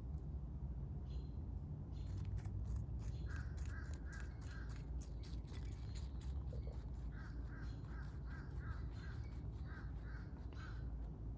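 Crows cawing in runs of several caws, over rapid close-up crunching of a rabbit chewing and a steady low rumble.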